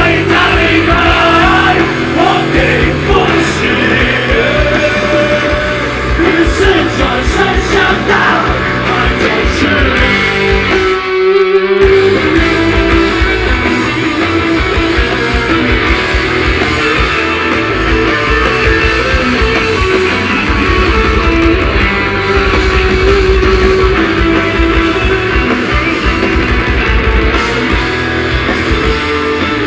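Live rock band playing loudly: electric guitars, bass and drums, the drum part played with double bass-drum pedals. About eleven seconds in the low end drops out briefly before the full band comes back in.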